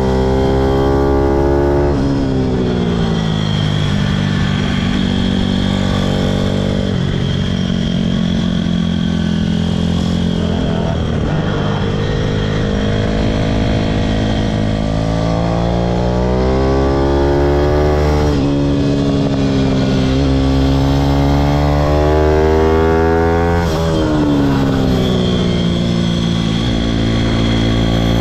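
Pitom pit bike's single-cylinder engine revving hard through a lap. Its pitch climbs under throttle, then drops suddenly at gear changes and on closing the throttle, several times over.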